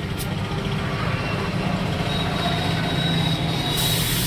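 Steady machine hum with a thin high whine that comes in about halfway, and a short burst of hiss near the end.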